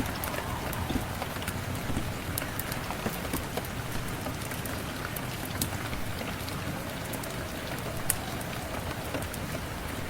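Steady rain falling, with scattered sharp crackles from a wood fire mixed in.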